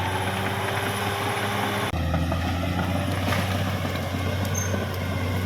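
Caterpillar D6R XL bulldozer's diesel engine running steadily, its note shifting abruptly about two seconds in.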